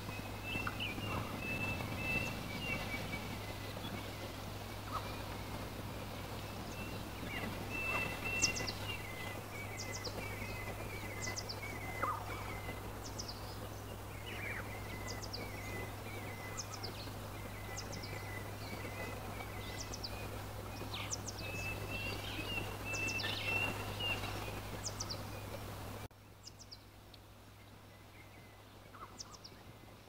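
Wild birds calling outdoors: repeated short chirps and warbling notes with quick high falling calls, over a steady low background hum. Near the end the sound cuts abruptly to a much quieter bed with only a few faint chirps.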